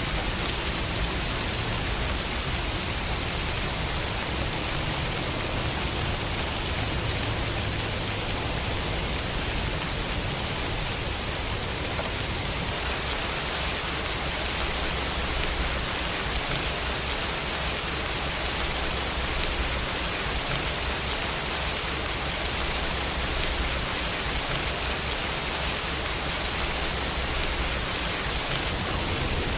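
Steady rain falling, an even hiss of drops on surfaces with a low rumble underneath.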